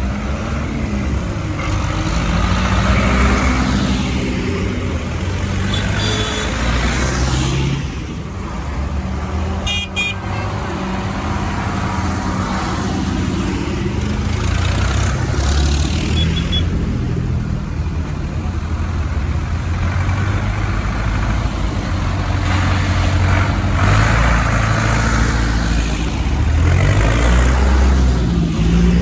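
Tractors driving past one after another, their engines rising and fading as each passes, with a few brief horn toots.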